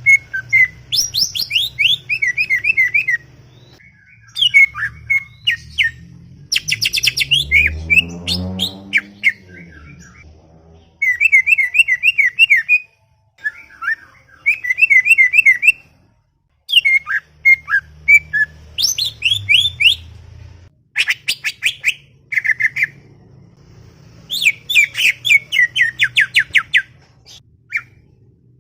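A green leafbird (cucak ijo) singing in bursts of rapid chirps, trills and whistled notes, one to three seconds each with short pauses between, chattering almost without a break. A lower pitched sound swells and fades about eight seconds in.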